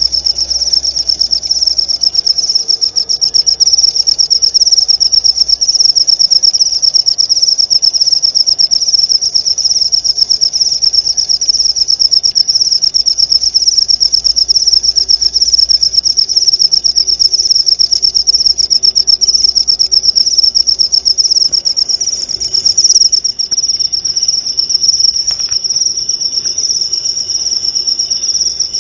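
Cricket trilling loudly in one long, unbroken, high-pitched trill made of very rapid pulses; a fainter, lower tone joins about two-thirds of the way through.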